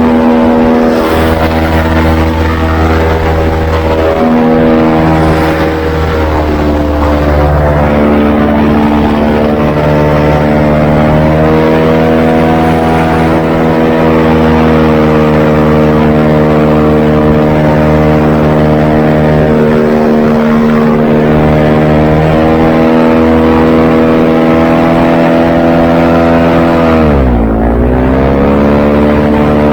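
Airboat engine and propeller running loud and steady at speed, the pitch shifting a little with the throttle. Near the end the engine note drops sharply and climbs straight back up.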